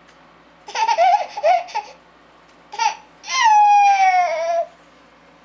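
High-pitched laughter: a quick run of four or five laughs, then a short call and a long drawn-out call that slides down in pitch, the funny sound he makes when laughing.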